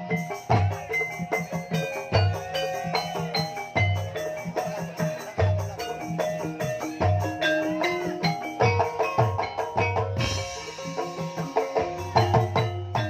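Instrumental passage of Banyumas traditional ensemble music accompanying sinden singing. Mallet-struck keyed instruments play quick runs of notes over a low hand-drum stroke about every one and a half seconds.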